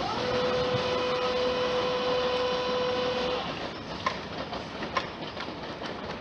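Train passing, with a steady tone over the running noise for about three seconds, then fading to a quieter rumble with scattered clicks.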